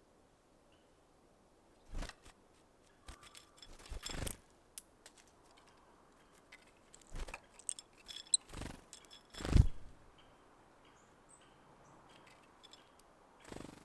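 Small birds at a feeder making irregular taps, knocks and scrapes as they land and peck at sunflower seeds. There is a cluster of them in the first few seconds, then more, with the loudest knock near the middle.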